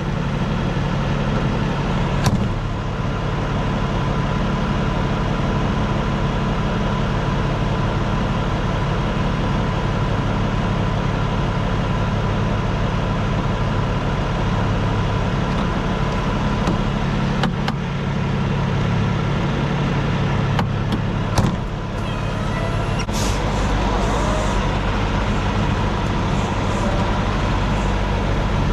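Peterbilt 579 semi truck's diesel engine running steadily at low revs, with a few sharp knocks or clunks scattered through it, the loudest a little past two-thirds of the way in.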